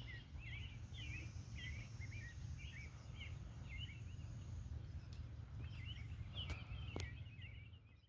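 Birds chirping over and over in short, swooping high notes, over a steady low rumble of wind on the microphone. Two faint clicks come about five and seven seconds in.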